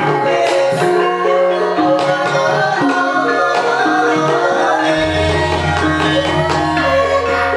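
Javanese gamelan ensemble playing, with metallophones holding ringing tones, kendang drum strokes and a singer's voice over them. A deep gong stroke comes in about five seconds in and rings on.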